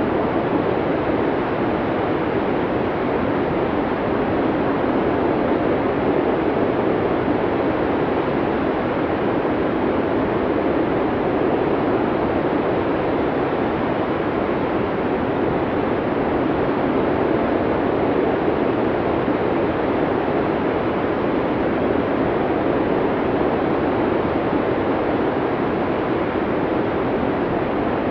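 Blizzard wind blowing through a forest: a steady, deep rush of noise that swells slightly now and then, with no gusts or breaks.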